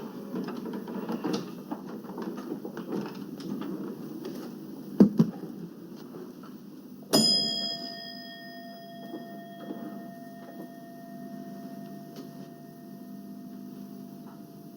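A couple of dull knocks, then about seven seconds in a single sharp metallic strike, like a bell, whose ringing fades slowly over several seconds, over a steady low background hum.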